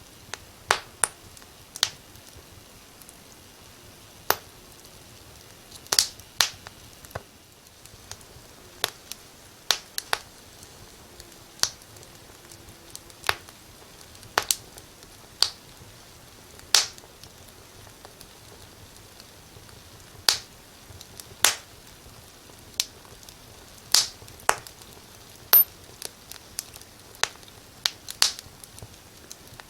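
Fire crackling in a fireplace: sharp, irregular pops, about one or two a second, over a faint steady hiss.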